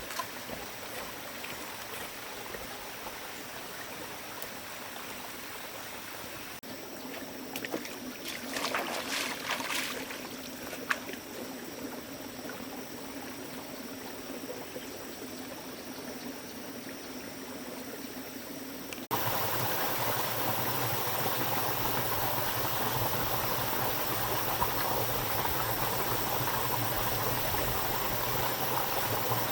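Running water, heard as a steady rushing, with a brief louder stretch about eight seconds in. After an abrupt cut about two-thirds of the way through, the rushing becomes louder and fuller.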